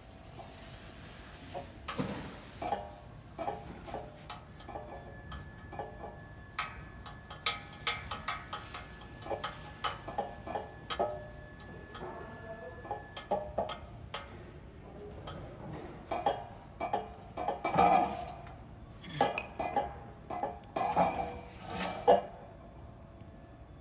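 Irregular metallic clinks and clicks of hand tools on metal, some briefly ringing, with a denser cluster of louder clanks toward the end.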